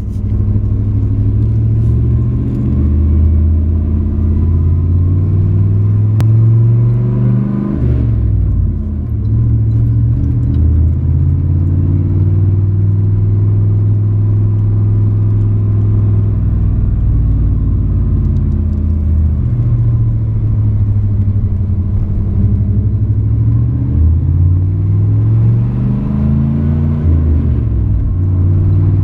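1993 Chevrolet 1500 4x4 pickup's engine running as the truck drives. The engine note drops sharply about eight seconds in and climbs again, and near the end it rises and then falls, as with gear changes.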